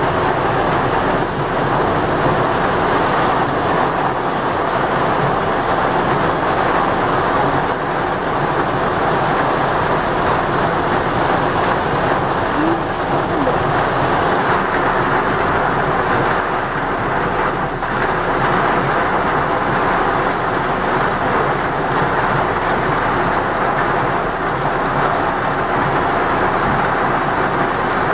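Heavy rain falling, a loud, steady hiss of rain that keeps on without a break.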